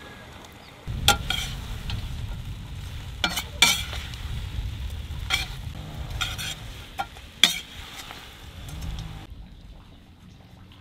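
Lamb ribs and onion frying in a cast-iron kazan while a metal skimmer stirs them, with several sharp clinks of the skimmer against the pot. The sizzle and stirring stop near the end.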